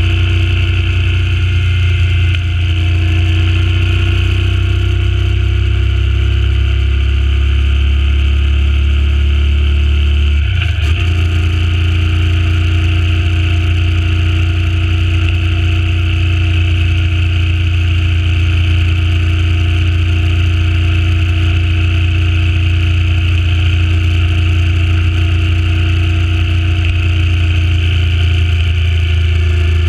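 Suzuki Intruder C800's V-twin engine running steadily under way, heard from on the bike. The engine note breaks briefly about ten seconds in, then carries on as before.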